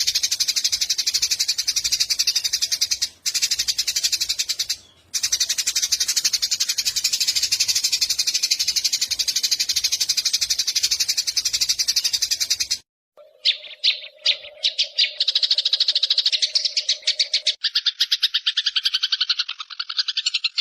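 A recorded animal call used as a song-tutor track: a loud, very rapid buzzing trill that runs on with two brief breaks, then stops abruptly about 13 seconds in. After a few clicks a different rapid trill begins, with a low steady tone under it, and drops lower in pitch about four seconds later.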